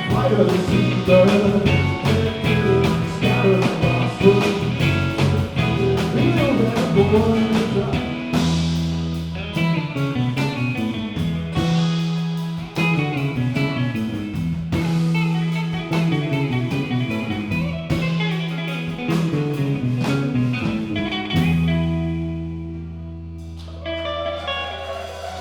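Live band playing a guitar-led blues-rock jam with drums. From about eight seconds in, a descending riff repeats over held bass notes, and near the end the band settles on a long sustained chord with a few guitar licks over it.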